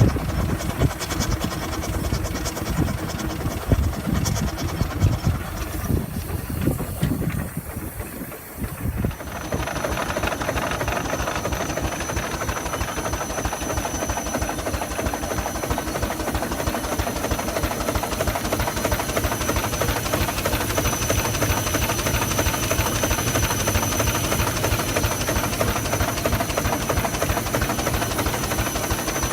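Miniature Burrell showman's steam traction engine under way: steam hiss and mechanical beat. About nine seconds in, after a brief dip, it settles into a fast, even rhythm with a thin, steady high whine.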